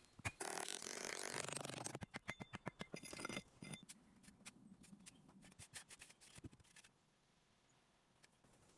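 Scraping, then a quick run of sharp clicks and snips that thins out into a few faint ticks, falling almost silent near the end.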